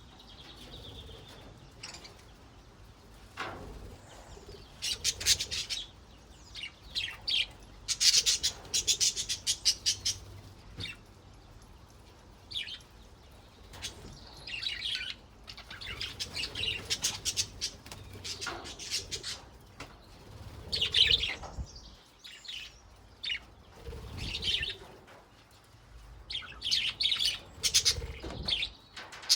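Budgerigars chattering and warbling: bouts of rapid high chirps and trills with short pauses between them.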